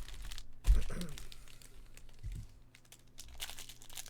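Plastic and foil wrapping crinkling as a baseball card box and pack are handled and opened, with a dull thump about two-thirds of a second in.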